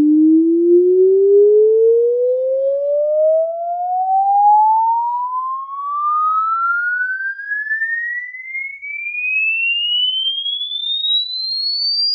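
Sine-wave frequency sweep played through a defective Teufel passive loudspeaker: one pure tone gliding steadily upward from a low hum to a high whistle, with fainter higher tones running alongside it through the lower part of the sweep.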